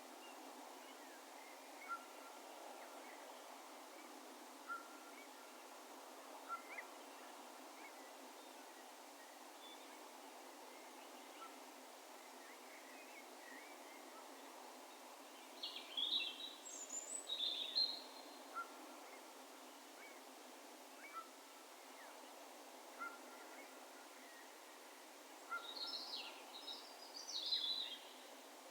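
Distant birds calling over faint steady background noise: a short, single high note repeated every two to three seconds, and two brief bouts of higher, chirping calls, one about halfway through and one near the end.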